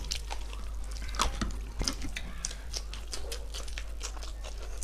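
Close-up eating sounds of two people chewing chowmein noodles and fried chicken: many short, irregular wet mouth clicks and smacks.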